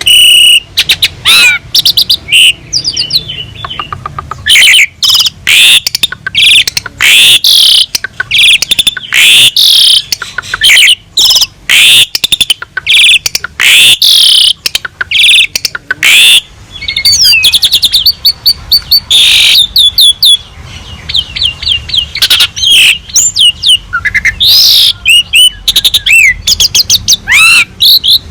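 Asian pied starling (jalak suren) singing vigorously almost without pause: a loud, varied run of short whistles, chirps and quick trills, many of them sweeping up or down in pitch.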